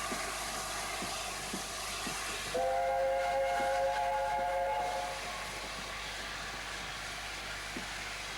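Three-note chime whistle of LNER Gresley A4 Pacific No. 60009 Union of South Africa, sounding once for about two seconds a few seconds in. Under it is the steady running noise of the steam locomotive, with a regular beat of about two a second.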